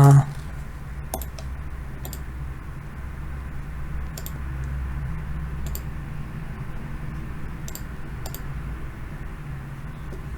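Scattered light clicks and taps, about six of them, as of writing, over a steady low hum; a brief vocal sound is the loudest moment, right at the start.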